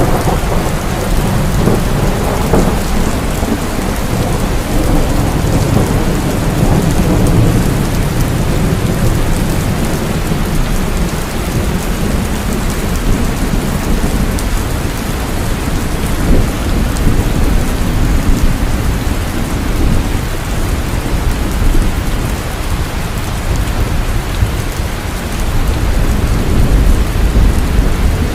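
Heavy rain falling steadily, with low rolling thunder rumbling underneath. The rumble swells near the start and again near the end.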